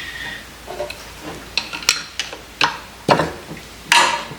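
Metal parts of a Kurt milling machine vise clinking and knocking as it is taken apart: several sharp knocks, then a longer scrape near the end.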